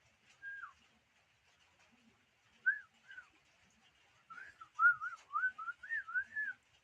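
Pet bird singing clear whistled notes: a single falling note, two short notes, then a quick run of rising-and-falling whistles in the second half.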